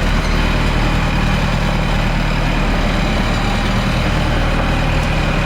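A houseboat's engine running steadily at an even low pitch, with no change in speed.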